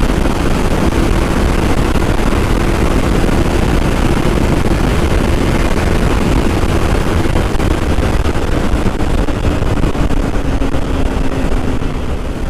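Kawasaki Ninja 300 parallel-twin engine running at high highway speed under heavy wind rush. The engine note holds steady, dips slightly towards the end and picks up again.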